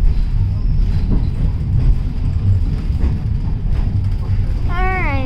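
Skunk Train passenger coach rolling along the track: a steady low rumble of the wheels on the rails and the car body running.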